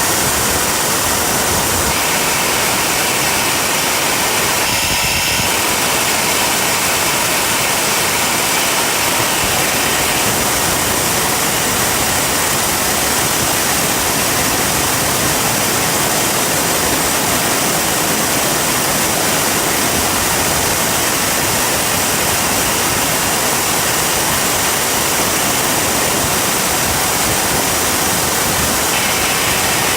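Turbocharger jet engine running at a steady speed: a loud, even rush of noise, with a faint high whine coming in about two seconds in and fading out around ten seconds.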